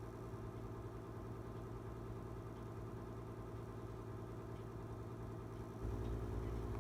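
Steady low mechanical hum that gets louder about six seconds in.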